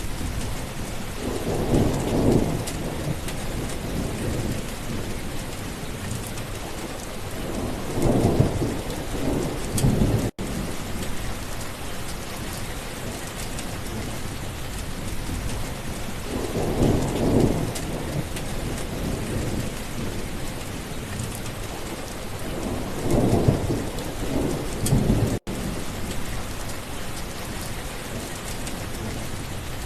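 Steady rain with thunder rumbling four times, each roll swelling for a second or two before fading. The sound drops out for an instant twice.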